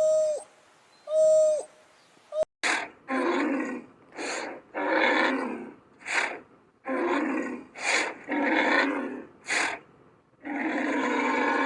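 Wild animal calls: two short hooting calls, then after an abrupt break a run of about a dozen rough, harsh calls, the last one longer, about two seconds.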